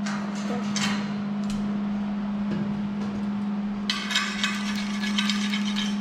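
Welding arc crackling and sizzling for about two seconds, starting about four seconds in, over a steady low hum. A few short clicks come before it.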